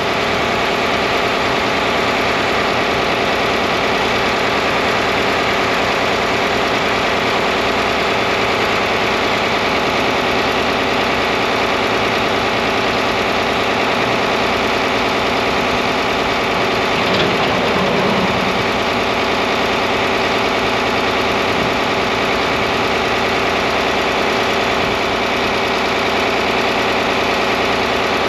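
John Deere 4010 tractor engine idling steadily. About seventeen seconds in, there is a brief clatter.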